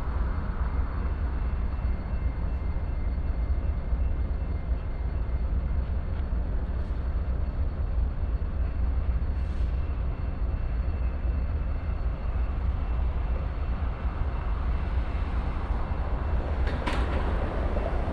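BNSF freight train rolling past: a steady low rumble of the cars on the rails, with a brief sharp noise near the end.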